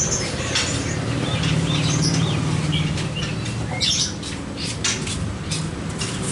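Birds chirping in short scattered calls over a low steady background hum, with a few sharp clicks.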